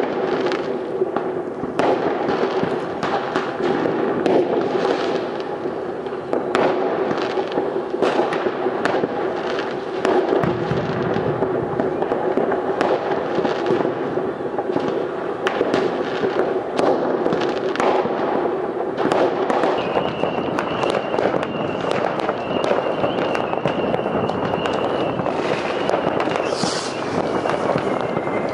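Many fireworks and firecrackers going off in quick succession: a dense run of bangs and crackles over a constant background of further explosions. A steady high tone sounds through the last third.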